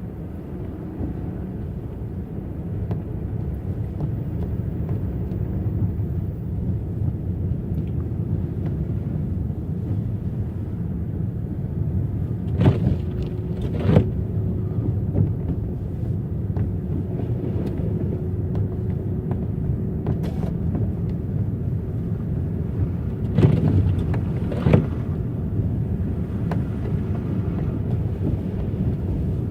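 Car driving on a rough road: a steady low rumble of tyres and engine, broken twice by a pair of sharp thumps as the car jolts over bumps, about halfway through and again near the end.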